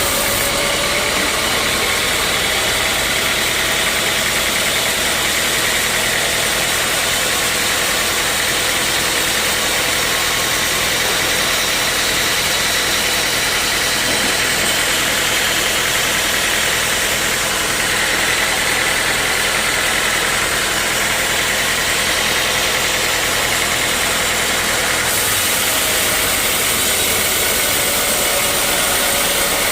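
Sawmill running steadily: a loud, continuous mechanical noise with a faint whine.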